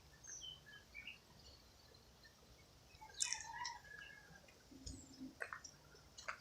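Faint birdsong: scattered short chirps and calls, the loudest cluster about three seconds in, with a couple of sharp clicks near the end.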